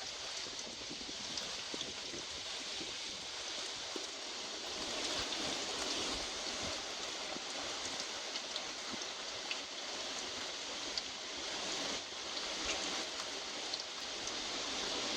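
Heavy thunderstorm rain falling steadily, a dense even hiss with scattered sharp ticks of drops striking nearby surfaces; it grows a little heavier about five seconds in.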